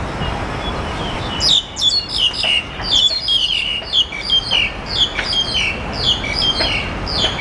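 A small bird chirping: a rapid run of short, high notes, each dropping in pitch, repeated two or three times a second and starting about a second and a half in. A steady low rumble before it falls away as the chirping begins.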